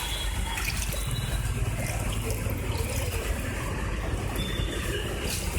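Floodwater trickling and sloshing, with a steady low hum underneath.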